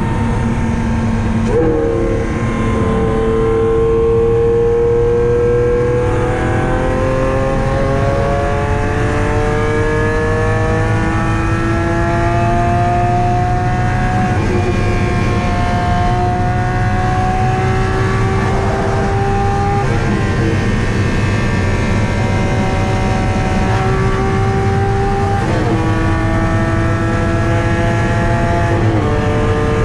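Lamborghini Aventador SV's V12 with a catless aftermarket exhaust, heard from inside the cabin at full throttle at high speed. The engine note climbs slowly through the revs and steps abruptly at several gear changes, over a steady roar of wind and road.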